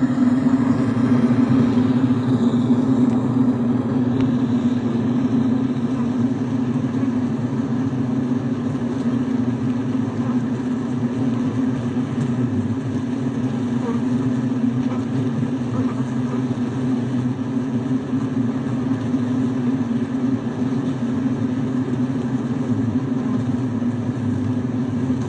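Bee vacuum running steadily, sucking honeybees off a hive exposed in a wall.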